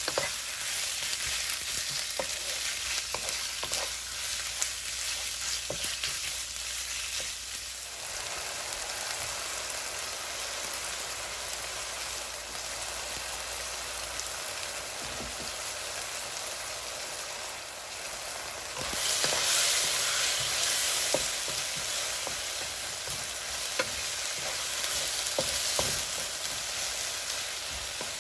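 Sliced meat and onions sizzling in a nonstick wok, stirred with a wooden spatula that clicks and scrapes against the pan, most often in the first several seconds. The sizzle grows louder about two-thirds of the way through.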